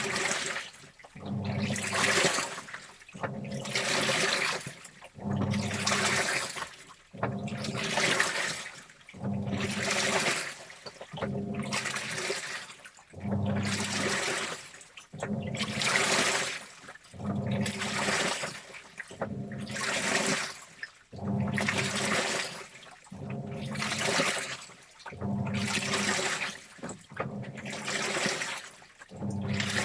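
Washing machine in its wash cycle: the drum churns clothes through water in regular bursts about every two seconds, with the motor humming under each burst and short pauses between them.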